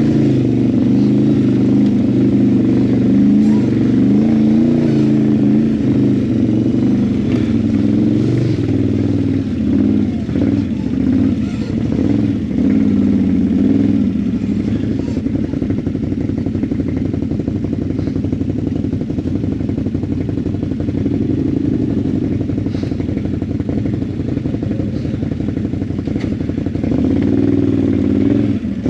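ATV engine running under way, its note rising and falling with the throttle, with scattered knocks and rattles over the rough trail.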